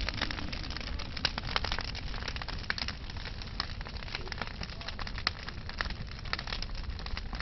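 Large wood bonfire burning hard: a steady low rumble of flame with frequent sharp, irregular crackles and pops from the burning logs.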